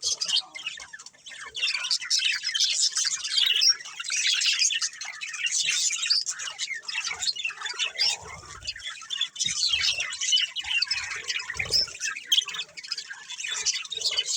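A group of budgerigars chattering, a dense run of rapid high chirps and warbles with occasional squawks, broken by a few soft low thumps.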